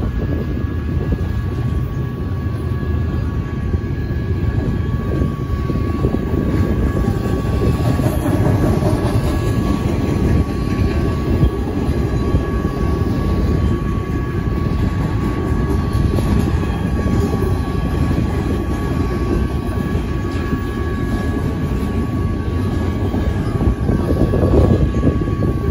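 Double-stack intermodal freight cars rolling past at a grade crossing, with a steady noise of wheels on rail. Over it, the crossing's GS Type 1 electronic bell rings continuously.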